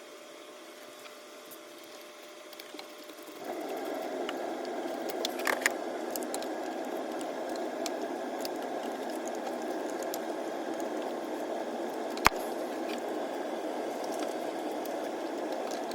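Small ticks of a spark plug being threaded in and tightened on a V6 engine, with one sharp click about three quarters of the way through as the torque wrench reaches its setting of about 16 ft-lb. A steady hiss sets in a few seconds in.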